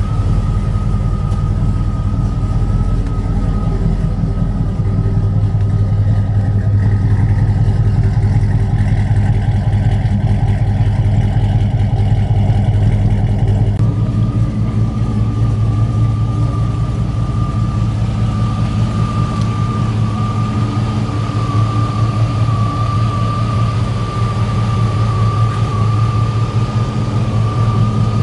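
A vehicle engine idling steadily, with a steady high-pitched whine over it; the sound shifts slightly about halfway through.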